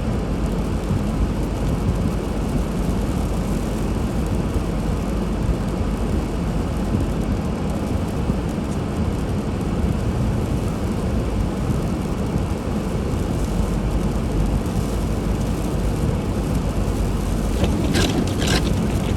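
A car driving, with the steady low rumble of road and engine noise. A few short, sharp sounds come near the end.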